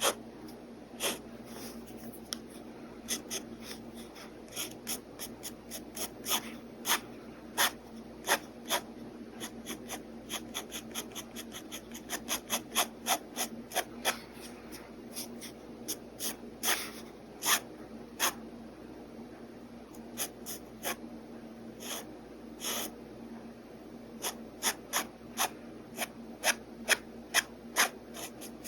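Pen nib scratching on paper in many short, irregular strokes, some in quick runs, over a steady low hum.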